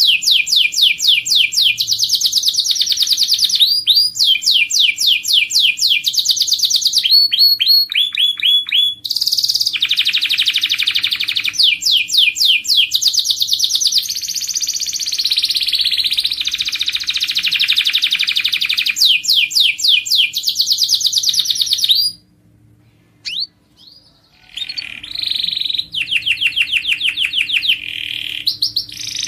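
Domestic canary singing: loud, high-pitched trills of rapidly repeated notes in phrase after phrase, with a pause of about two seconds late on before the song resumes.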